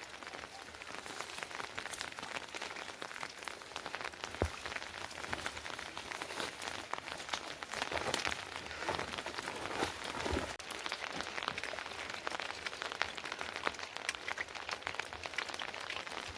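Rain falling steadily, with many separate drops striking close by and a sharper knock about four and a half seconds in.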